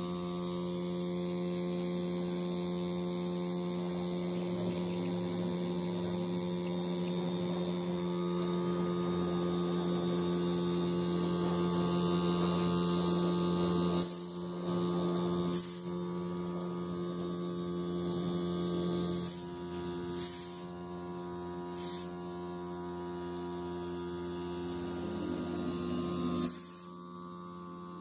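Steady electric hum with even overtones, joined from about halfway by several short hissing bursts.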